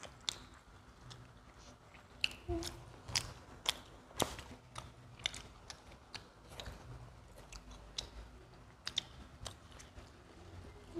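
Two people biting into and chewing pizza slices close to the microphone: irregular crisp clicks and crunches of the crust, a few a second.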